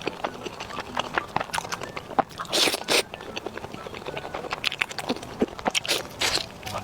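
Close-miked eating: a person biting and chewing crunchy food, with many small crackling clicks and a couple of longer crunches, about two and a half seconds in and again near the end.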